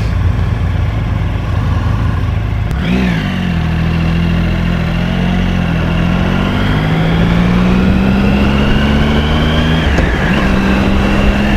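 Motorcycle engine running on the road under a rush of wind. About three seconds in and again about ten seconds in, its pitch briefly drops and picks back up, and between those points it climbs slowly as the bike gathers speed.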